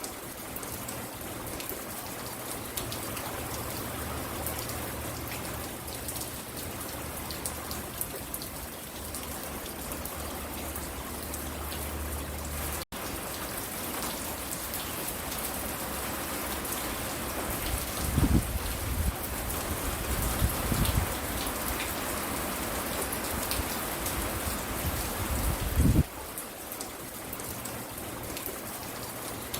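Steady rain falling and pattering onto a porch, with fine individual drop ticks. A few brief low rumbles come about two-thirds of the way in and again near the end, and the sound cuts out for an instant near the middle.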